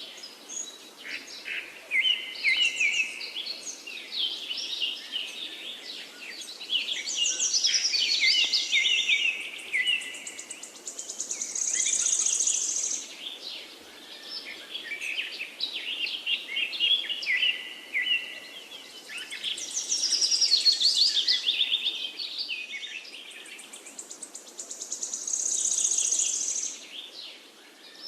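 Several songbirds singing and chirping together in quick, overlapping phrases, with a high buzzy trill now and then. The sequence recurs roughly every 14 seconds.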